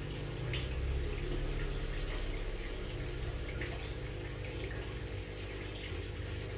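Aquarium filter running: water splashing and trickling over a steady low hum from the pump.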